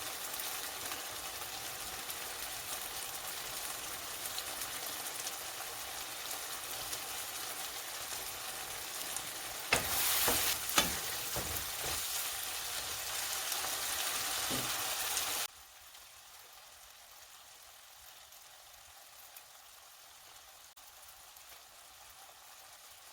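Chicken hearts curry sizzling in a pan, with a few sharp knocks of stirring about ten seconds in. The sizzle cuts off suddenly after about fifteen seconds, leaving only a faint hiss.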